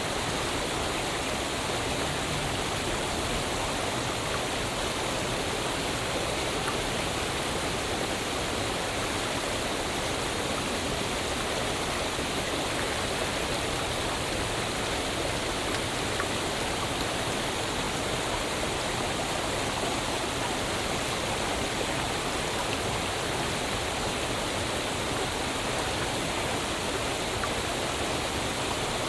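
Waterfall: water falling and rushing in a steady, unchanging wash of noise.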